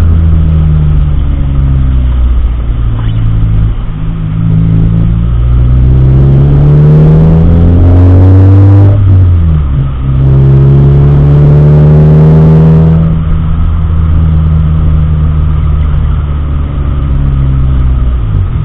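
Car engine accelerating. Its pitch rises, drops sharply at a gear change about nine seconds in, rises again, then holds steady at cruising speed.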